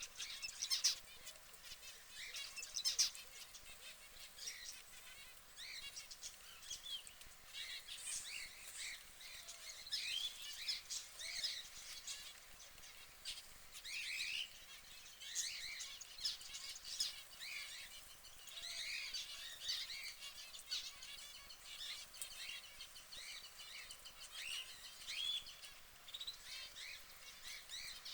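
Canaries chirping: many short, irregular tweets and chirps, with a couple of brief sharp sounds in the first few seconds.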